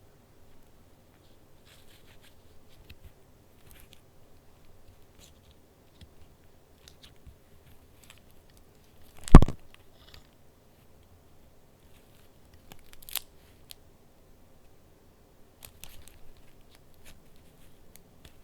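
Paper handling of a junk journal: faint rustling and small clicks of pages and paper pieces, with one loud sharp knock about halfway through and a smaller snap a few seconds later.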